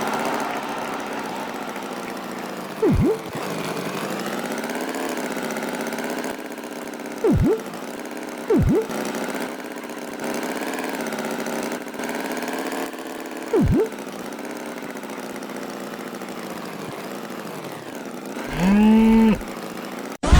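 Engine running steadily with a wavering pitch, broken four times by short swooping blips. Near the end a cow moos once.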